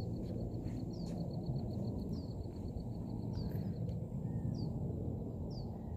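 Small birds calling over a low steady background rumble. A fast, even ticking trill lasts for the first few seconds, and short high downward chirps repeat about once a second.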